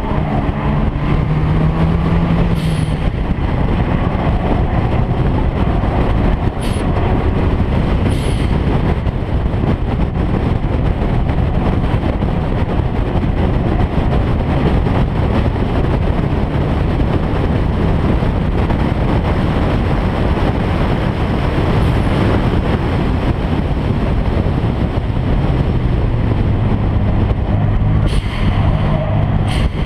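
Car engine running hard, with dense road and wind noise that stays loud and steady. The engine note stands out near the start and again near the end.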